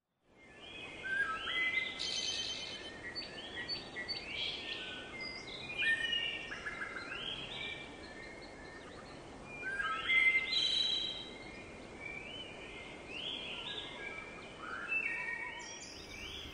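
Birdsong: birds chirping and whistling in short, overlapping phrases over a faint steady hiss, fading in at the start.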